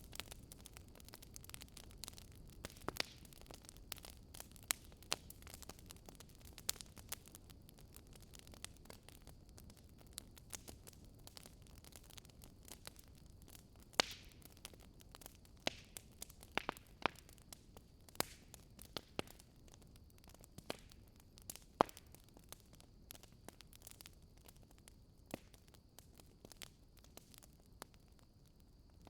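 Fireplace fire crackling: irregular sharp pops and snaps over a low, steady rumble and hiss.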